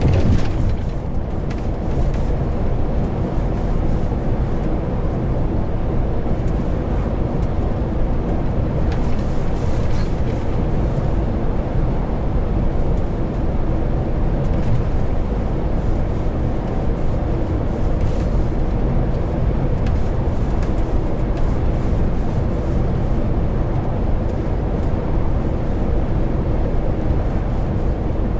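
Heavy truck on the move: a steady drone of the diesel engine and a low road rumble that holds even throughout.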